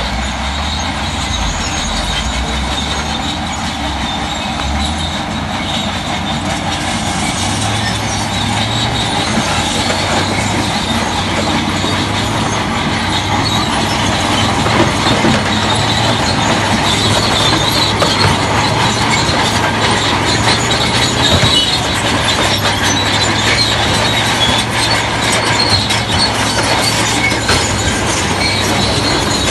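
Crawler bulldozer working, its diesel engine running under load while the steel tracks clank and squeal continuously. The engine note steps up a little about seven seconds in.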